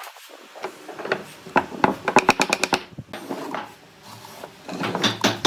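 Rapid series of sharp mechanical clicks, about eight to ten a second, in a burst about one and a half seconds in, with a second cluster near the end.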